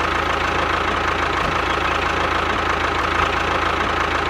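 Small tractor engine idling steadily with a fast, even knock.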